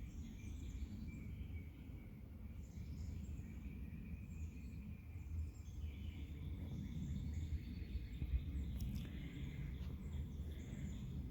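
Outdoor ambience: a low rumble of wind on the microphone, with faint bird chirps.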